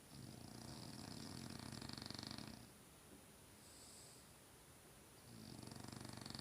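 French bulldog snoring in its sleep: two long snores, each a fast low flutter with a hiss over it. The first lasts about two and a half seconds; the second starts about five seconds in. A faint, softer breath comes between them.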